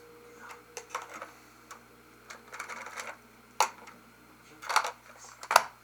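Hard plastic toy parts and packaging being handled: irregular clicks and knocks, with brief rustling, the sharpest knock near the end.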